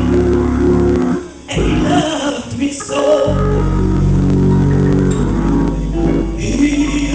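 Gospel music: singing over guitar and bass guitar. The music dips briefly about a second in, and the bass comes back strongly a little after three seconds.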